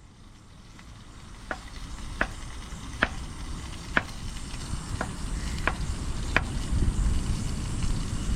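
Food sizzling in a pan over a campfire, with seven or so sharp clicks about a second apart.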